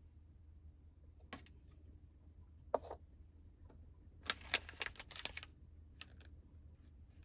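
Small hard objects being handled: a few sharp clicks, a single knock, then a short burst of rapid clicking and clatter about four seconds in, over a low steady hum.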